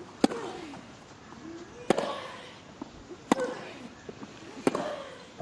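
Tennis rally: a ball struck by rackets four times, about a second and a half apart, each stroke followed by a player's short grunt.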